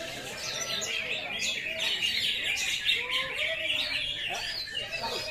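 Many caged songbirds singing at once in a contest: a dense, overlapping chorus of quick chirps, trills and whistles, busiest about halfway through, with faint voices underneath.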